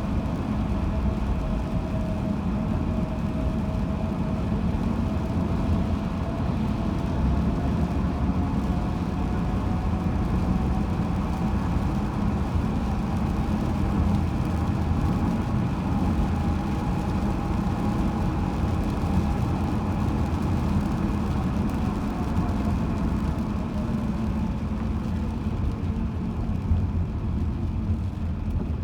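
Road noise inside a moving car: steady tyre and engine noise, with a faint whine that drops in pitch near the end.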